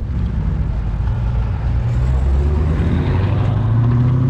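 Classic car engine running with a low, steady note that climbs a little in pitch about three seconds in, as the car pulls away.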